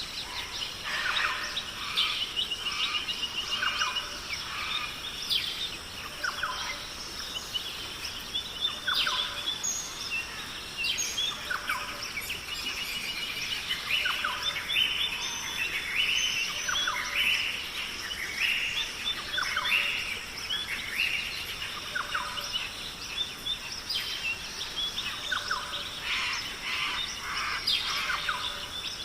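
Birds chirping and calling, many short quick notes overlapping, over a steady high-pitched hiss.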